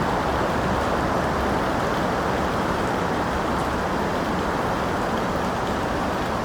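Steady rain, a dense even hiss weighted toward the low and middle range, with faint scattered drop ticks higher up.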